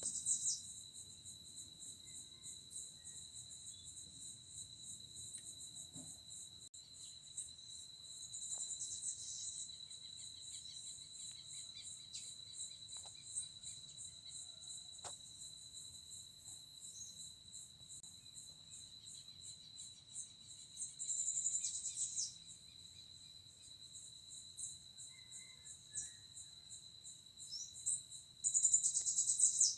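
Insects chirping, crickets among them: a steady high-pitched trill with a rapid pulsing chirr above it, which swells louder for a second or so several times.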